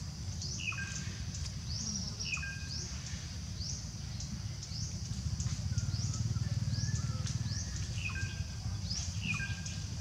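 Forest birds calling: short rising chirps repeated every second or two, with brief lower notes between them, over a steady high drone. A low rumble swells in the middle.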